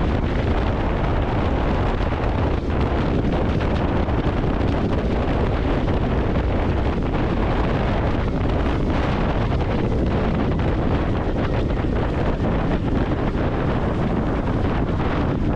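Steady wind rushing over the microphone of a moving motorcycle, with the Royal Enfield Continental GT 650's parallel-twin engine and exhaust running under it at a steady cruise.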